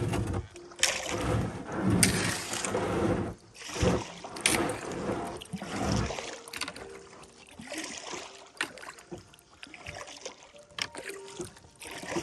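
Kayak paddling: the paddle dips and splashes and water sloshes, loud in surges for about the first six seconds, then quieter and patchier.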